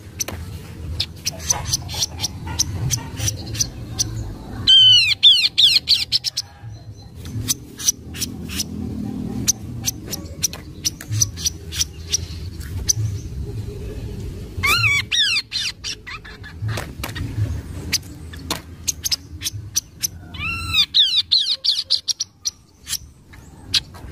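Kaso-kaso bird singing: a run of sharp, dry clicking notes, broken three times by a quick burst of swooping whistles. A steady low hum runs underneath.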